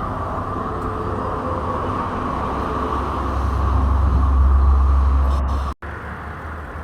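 Road traffic passing on a highway, a steady tyre-and-engine hum that swells louder for a couple of seconds in the middle as a heavier vehicle goes by, with a brief dropout near the end.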